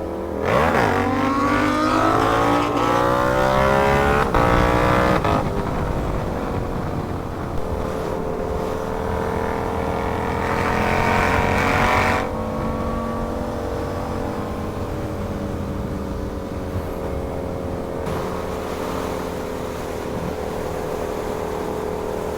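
Sportbike engine accelerating hard, its pitch climbing steeply and stepping through quick upshifts in the first five seconds, then running at a steady pitch at cruising speed, with a slow rise and a drop as the throttle closes about twelve seconds in. Wind rushes over the microphone throughout.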